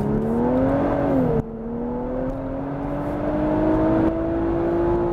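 Nissan Fairlady Z's 3.0-litre V6 twin-turbo engine heard from inside the cabin, accelerating with its pitch rising. About a second and a half in, the pitch and level drop suddenly as the automatic gearbox, in manual mode, shifts up a gear, and then the engine note climbs steadily again.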